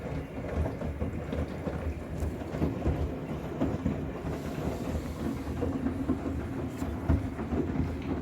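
Miele WCR 870 front-loading washing machine's drum turning in the wash, wet bath towels tumbling and sloshing over a steady motor hum. The turn stops near the end as the drum pauses.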